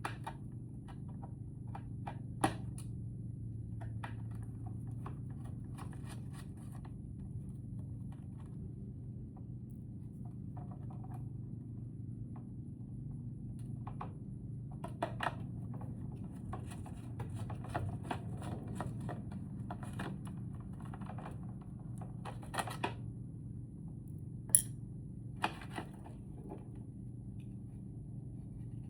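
Scattered clicks, taps and light rattles of hand tools and small parts being worked while a lithium trolling motor battery is taken apart, with a few sharper knocks, over a steady low hum.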